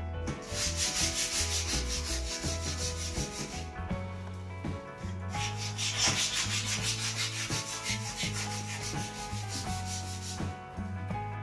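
Sandpaper rubbing on a new wooden snooker cue shaft in rapid, even strokes, in two spells with a short pause about four seconds in. Background music plays underneath.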